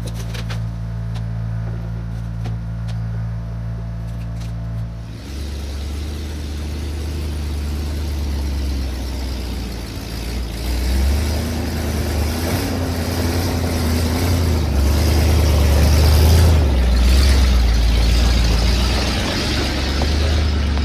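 1972 Chevrolet C50 dump truck's small-block 350 V8 idling steadily, then about five seconds in pulling away under load, the engine and road noise growing louder as the truck drives.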